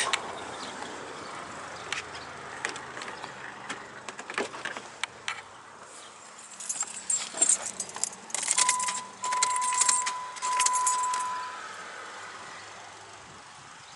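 Car keys jangling with scattered clicks. About eight and a half seconds in, a steady electronic chime tone sounds for about three seconds with two short breaks. No engine is heard running.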